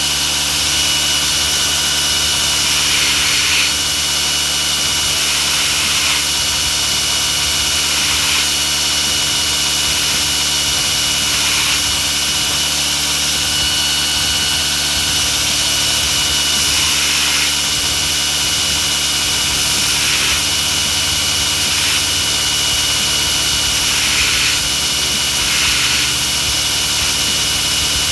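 Belt grinder motor running steadily, with about ten brief hissing spells as a small steel mosaic damascus cube is pressed against the belt in short passes, kept short so the cube doesn't get too hot.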